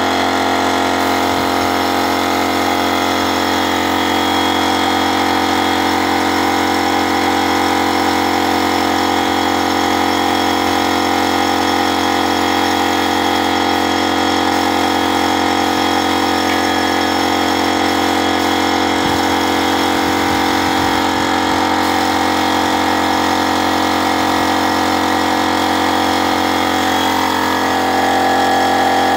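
Steady engine drone with many unchanging tones and no revving, typical of a car engine running at a constant speed.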